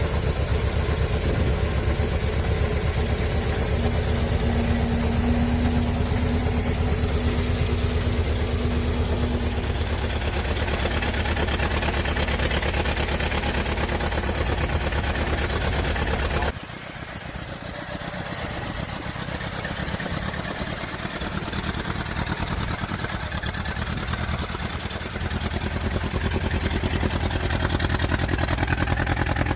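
1926 Ford Model T's inline four-cylinder engine running at a steady idle, with a quick, even beat. About sixteen seconds in it drops suddenly in level and loses much of its low rumble, then keeps running.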